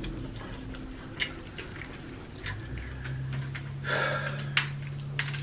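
Eating fried chicken drumsticks: chewing with scattered soft mouth clicks and smacks, and a heavy breath about four seconds in. A low steady hum comes in about three seconds in.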